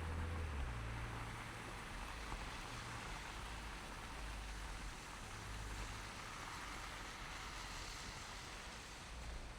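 Car driving on a snow-covered city street: a steady hiss of tyre and road noise with a low engine hum that shifts in pitch now and then.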